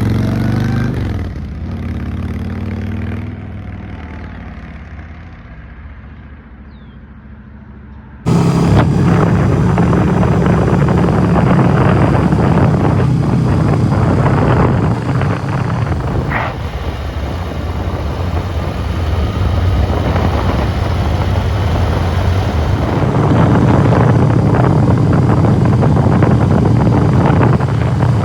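Motorcycle engine running, growing steadily fainter over the first eight seconds. It then gives way suddenly to the loud, steady rumble of a motorcycle at road speed, with heavy wind noise on the microphone.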